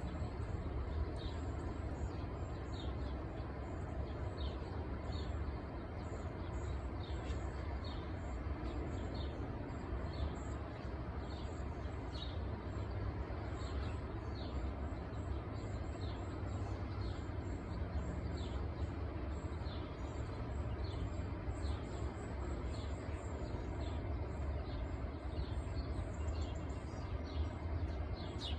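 Outdoor ambience of a steady low rumble with small birds chirping throughout: short falling chirps roughly once a second, and fainter, higher twittering.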